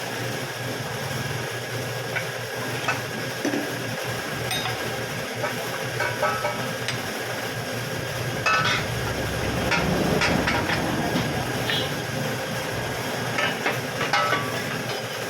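Metal tools clinking and tapping against metal suspension parts in scattered short strokes, some ringing briefly, over a steady background hum.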